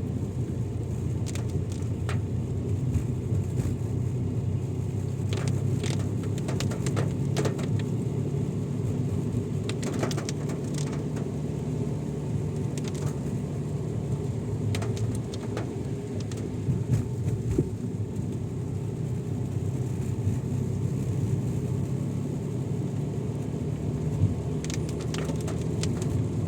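Steady engine and road noise of a moving car, heard from inside the cabin, with scattered light clicks and knocks.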